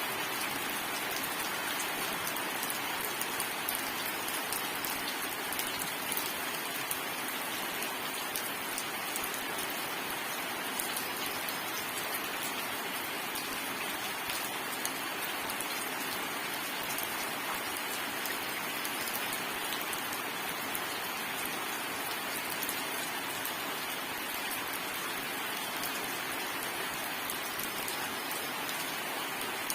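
Steady rain falling and pattering on a surface, an even hiss of many drops with fine ticks of individual raindrops, no thunder.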